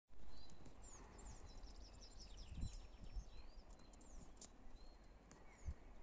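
Small birds singing faintly, with many short high chirps, slurred whistles and quick trills. A low thump at the very start and a few soft low knocks, like wind or handling on the microphone.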